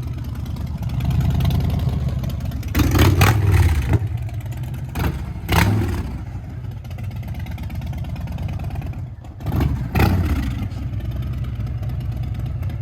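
Harley-Davidson Fat Boy 114's Milwaukee-Eight V-twin running through a Big Radius exhaust: a steady low rumble with sharp rises in revs about three, five and a half and ten seconds in, the first the loudest.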